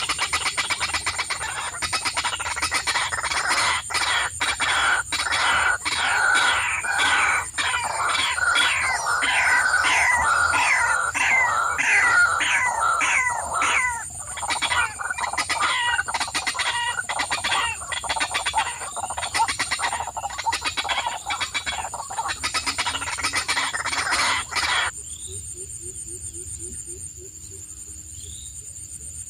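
Many birds calling loudly together, a dense chatter of quick downward-sweeping calls mixed with sharp clicks. About 25 seconds in it cuts off abruptly, leaving a few faint chirps over a steady high hiss.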